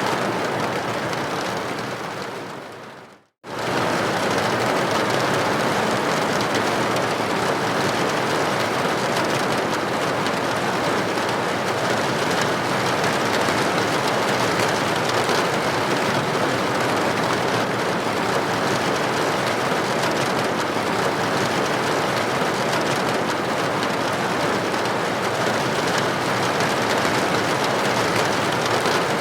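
Steady rain on a window, a dense even hiss of droplets. It fades out about two seconds in to a brief moment of silence, then comes straight back and stays steady.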